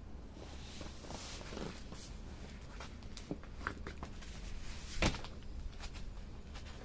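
Wood fire crackling, with scattered small pops and one sharp, loud snap about five seconds in.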